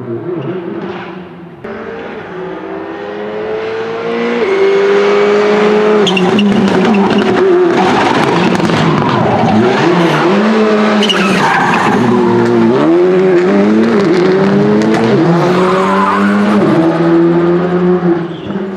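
Rally car engine getting much louder about four seconds in as the car comes close. Its pitch repeatedly drops and climbs through gear changes and throttle lifts, with tyres skidding on tarmac.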